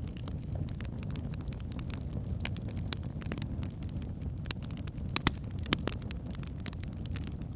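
Wood fire burning in a fireplace: a steady low rumble of flames with irregular sharp crackles and pops from the burning logs, a few louder pops about five to six seconds in.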